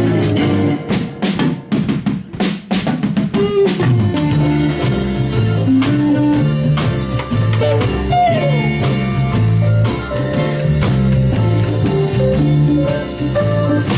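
Blues band music in a 16-bar blues: from about a second in, drum hits stand out while the held notes drop away, then the bass line, drums and guitar carry on steadily from about four seconds in.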